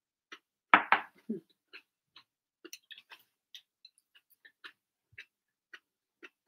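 Soft, irregular clicks and ticks of someone chewing a mouthful of tofu dressing with crisp myoga, with a couple of louder knocks just under a second in.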